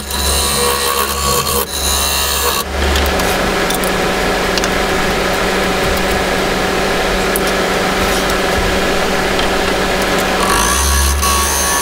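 Wood lathe running with a steady hum while the spinning resin-and-wood workpiece is being worked, giving a continuous hiss. The sound changes about two and a half seconds in and again near the end.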